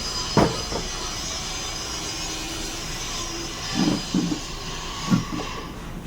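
A few sharp knocks over a steady background hiss: one about half a second in, two close together around four seconds in, and one more about five seconds in.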